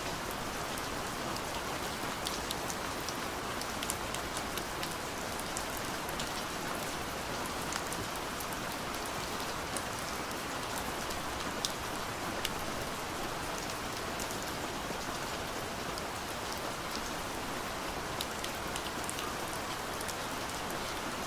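Soft rain falling steadily on a window: an even hiss with many small scattered drop ticks on the glass.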